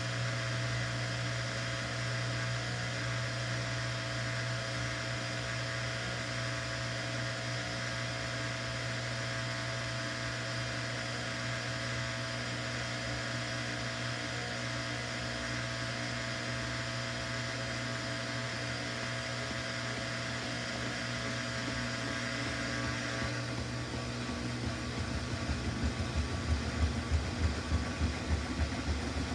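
Samsung washing machine running on a normal cycle: a steady motor hum. About three-quarters of the way through the sound changes and a quick, even pulsing sets in.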